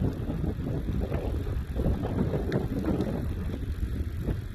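Wind buffeting the microphone of a camera carried on a moving bicycle, with a few faint clicks and rattles from the bike.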